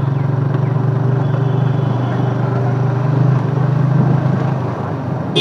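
Motorcycle engine running steadily, a continuous low drone with some noise over it.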